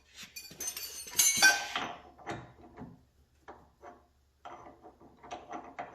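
Metal tools and parts clattering and clinking as they are handled, densest about a second in with a brief ringing, then scattered light clinks and knocks.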